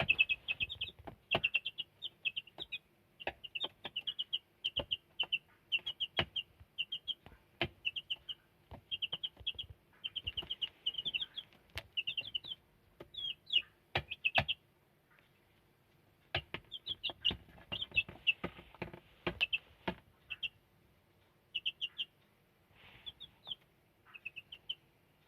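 Black silkie chickens peeping: quick runs of short, high-pitched peeps, pausing briefly about two-thirds of the way in and thinning toward the end, with scattered sharp knocks.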